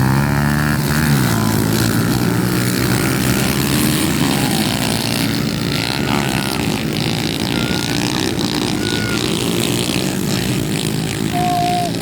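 Pit bike engines running, revving up and back in the first second, then holding a steady drone.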